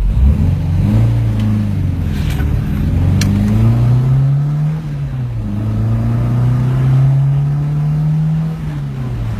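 MG BGT's four-cylinder engine accelerating hard through the gears. Its pitch climbs and falls back with each gear change: short rises early on, then a long climb dropping about five seconds in, and another long climb dropping again near the end.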